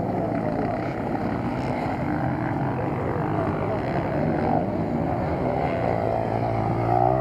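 Motocross motorcycle engines running on a track, their pitch wavering up and down as the bikes go round.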